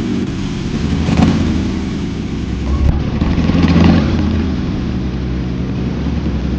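Motorcycle engine running under way, its revs swelling briefly about a second in and again around four seconds in.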